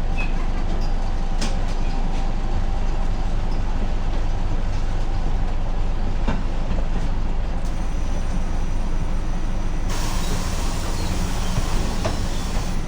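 Ikarus 280 bus running, a steady low engine and road rumble. About ten seconds in, a hiss sets in over it for about three seconds.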